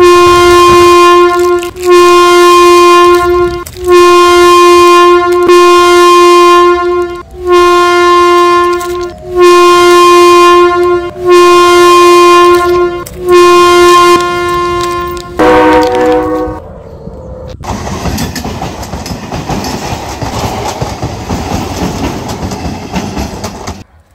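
Train horn sounding in a run of about eight long, very loud blasts, then one short blast at a different pitch. This is followed by about six seconds of the steady rushing noise of a passing train.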